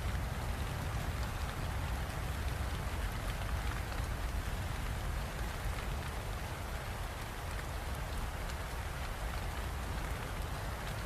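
Steady heavy rain: an even hiss of drops with a low rumble underneath.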